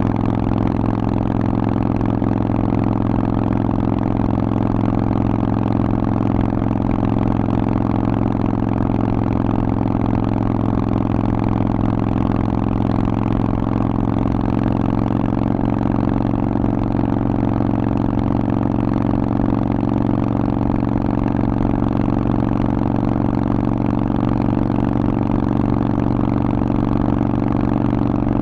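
Harley-Davidson Forty-Eight's 1200 cc air-cooled V-twin running at steady revs through a Vance & Hines exhaust, with an even, unchanging note.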